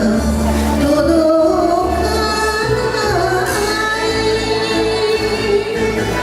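A woman singing a Japanese kayō-style song over instrumental accompaniment with sustained bass notes.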